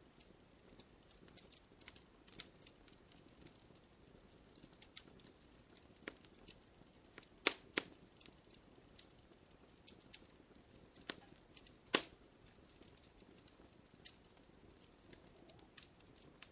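Wood fire crackling in a fireplace: irregular small clicks and pops over a faint hiss, with a few sharper snaps about halfway through.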